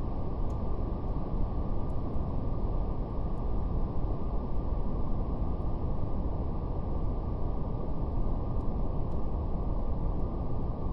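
Steady brown noise, a deep, even rumbling hiss weighted to the low end with little above the midrange. Very faint, scattered crackles of a fire sit on top.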